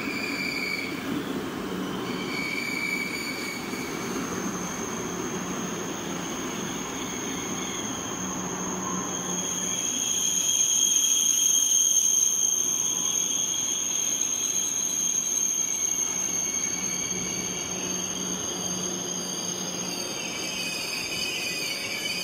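Deutsche Bahn ICE train rolling slowly along the platform as it comes in to stop, with a steady high-pitched wheel squeal over the rumble of the carriages, loudest about halfway through.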